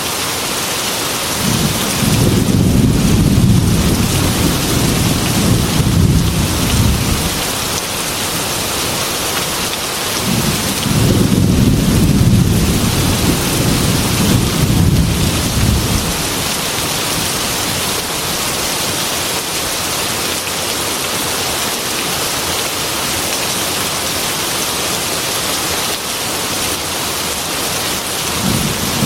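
Heavy rain pattering steadily on a glass window, with two long, low rolls of thunder of about five or six seconds each, and a third starting near the end.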